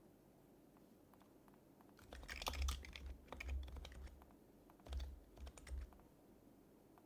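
Typing on an HHKB Professional HYBRID Type-S keyboard with its silenced Topre switches: a quick run of keystrokes about two seconds in, a short pause, then a second, shorter run, each with a soft low thump.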